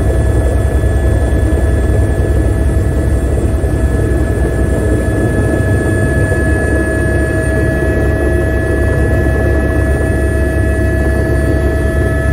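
Helicopter in steady cruising flight, heard from inside the cabin: a loud, unbroken low rotor-and-turbine rumble with a constant whine held over it.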